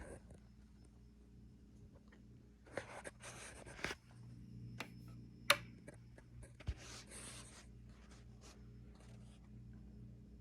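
Casablanca Lady Delta ceiling fan motor running with a faint steady hum that pulses slightly in an even rhythm, with a few brief rustles and a sharp click partway through.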